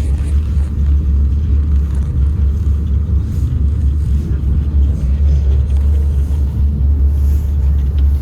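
Moscow Monorail train running along its track, heard from inside the carriage as a steady low rumble.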